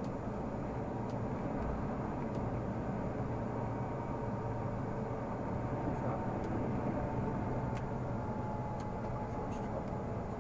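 Renault Magnum 480 truck's diesel engine running steadily on the move, a constant low drone mixed with road noise.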